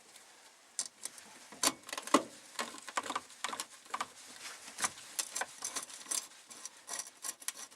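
Small metal screws and a hand tool clicking and rattling, several irregular light ticks a second, as the fuel pump cover plate's screws are started and lightly snugged. The sharpest click comes about two seconds in.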